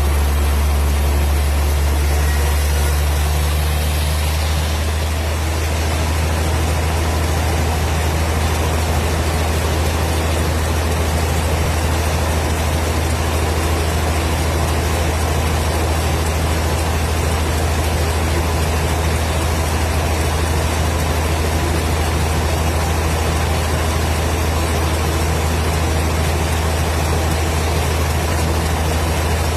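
Wood-cutting machine running steadily with a deep, even hum, its level unchanging throughout.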